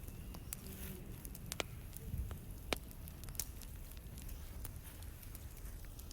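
Wood campfire crackling, with irregular sharp pops over a low, steady rumble.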